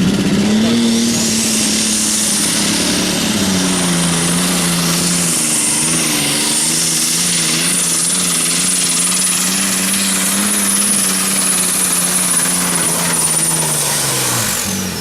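Limited Superstock pulling tractor's turbocharged diesel engine running flat out under load during a pull, with a high turbo whistle that rises about a second in and holds steady. Near the end the engine note and the whistle fall away as the tractor comes off the throttle at the full-pull mark.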